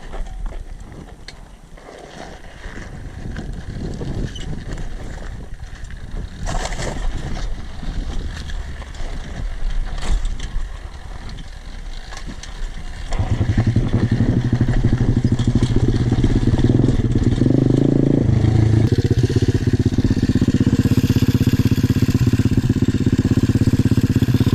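Rough, uneven rumbling that builds over about 13 seconds, then a small pit bike engine comes in loud and steady, its pitch stepping up briefly around 18 seconds before settling.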